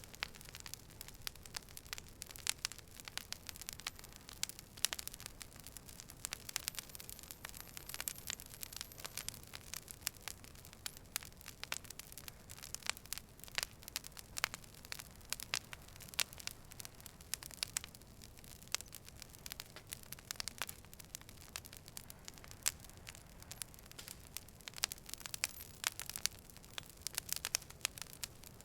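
Campfire burning, the wood crackling with a steady stream of irregular sharp pops and snaps over a soft low rush of flame.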